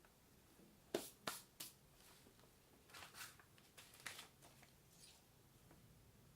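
Near silence broken by faint handling noises: three sharp clicks about a second in, then a cluster of scuffing clicks and scrapes a little later.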